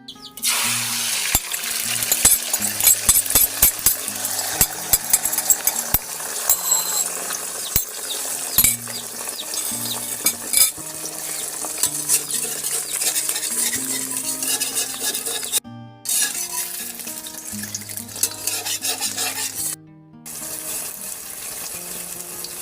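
Vegetables sizzling as they fry in a pan, with the clicks and scrapes of a utensil stirring them, over background music. The sizzle drops out briefly twice, about 16 and 20 seconds in.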